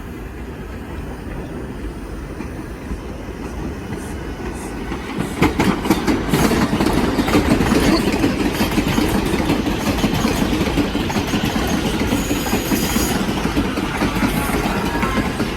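New York City subway train on the 4 line grows louder as it comes through, about five seconds in, its wheels clattering over the rail joints. A brief high wheel squeal comes about two-thirds of the way through.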